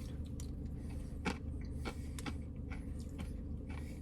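Someone chewing a mouthful of Blizzard ice cream with crunchy candy pieces: soft scattered clicks and crunches, with a sharper click about a second in, over a steady low hum.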